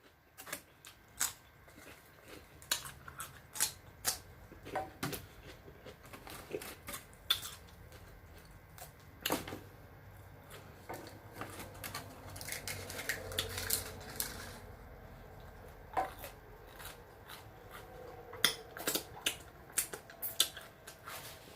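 Fairly quiet eating sounds: scattered sharp clicks, smacks and crunches of food being chewed and handled, with light clinks like dishes or cutlery.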